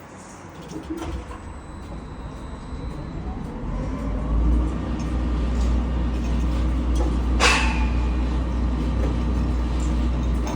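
Heavy diesel truck engine revving up and then running steadily at raised speed, with a brief sharp noise about seven and a half seconds in.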